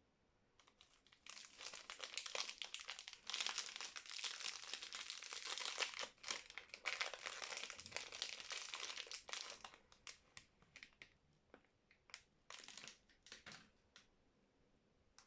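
Soap wrapper being crinkled and pulled open: dense crackling crinkles for about eight seconds, then scattered single crinkles that die away.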